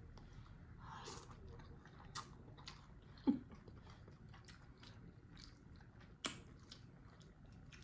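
Close-miked chewing of a forkful of ramen noodles in sauce: faint, scattered wet mouth clicks, with a sharper click about six seconds in.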